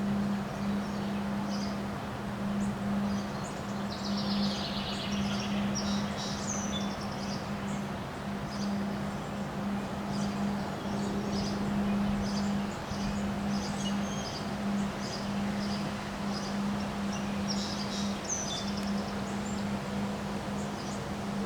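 Birds chirping and calling in many short high notes, with a trill about four seconds in and again near the end. Under them runs a steady low hum, and a constant noisy rush that fits the strong wind.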